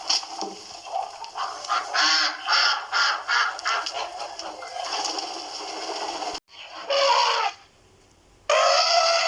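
Birds calling: a dense flock chorus, then, after a sudden cut about six seconds in, two separate loud calls, each under a second long.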